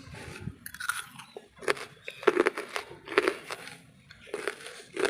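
Lumps of wood charcoal being bitten and chewed close to the microphone: about six sharp, dry crunches, each a short cluster of cracks, spaced about a second apart.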